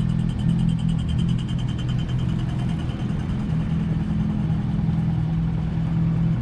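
Motor vehicle engine running steadily close by in street traffic, a low, even hum over the rumble of the road.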